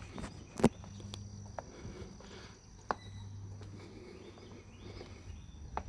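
Footsteps outdoors over a steady low hum and a faint high insect-like tone, with a sharp click about half a second in and two smaller ones later.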